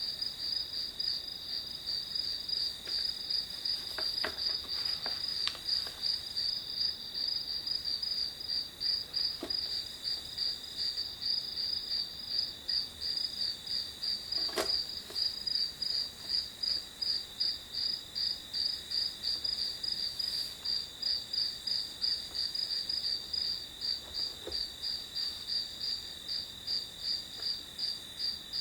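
Crickets chirping: a steady high trill with an even pulsing chirp about three times a second. A few faint taps sound over it, the clearest about halfway through.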